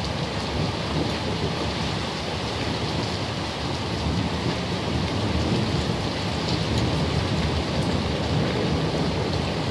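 Heavy rain pouring down in a thunderstorm downpour: an even, unbroken rushing hiss that holds steady throughout.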